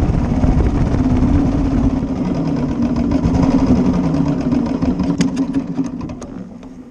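1941 Matchless G3L's 350 cc single-cylinder engine running as the motorcycle is ridden, its steady beat dying away over the last two seconds. A few sharp ticks come near the end.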